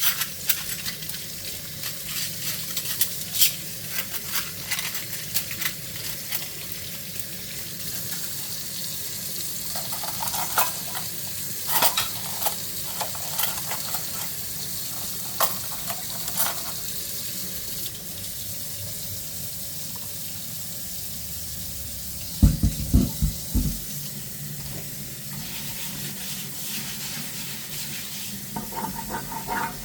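Dishes being washed by hand in a kitchen sink: tap water runs steadily while dishes and cutlery clink and scrape. A short run of heavier, dull knocks comes about three-quarters of the way through.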